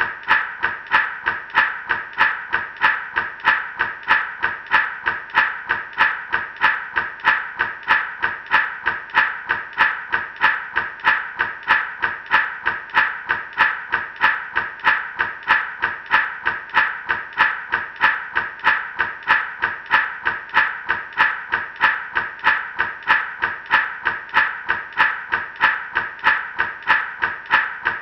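Gourd rattle shaken in a steady, even rhythm, about three shakes a second, each shake a short rattling swish of seeds inside the dried gourd.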